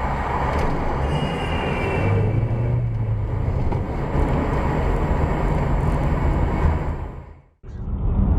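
Steady rumble of vehicle and road noise as picked up by a dash cam's microphone. About seven and a half seconds in it fades out briefly, and a duller, muffled rumble from another recording starts.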